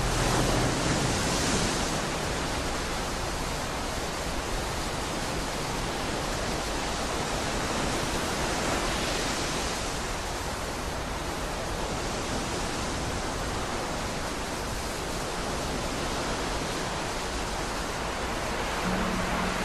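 Steady rushing noise, even from low to high, swelling and easing slowly with no beat or tune: a noise passage between metal sections of the album.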